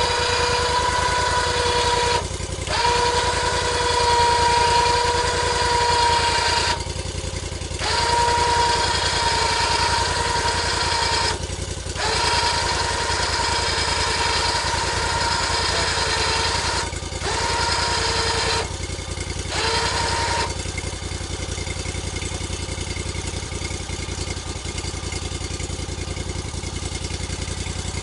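Engine-driven log-milling machinery running steadily, with a high whine over the engine that breaks off briefly several times and stops about twenty seconds in, leaving the engine running on its own.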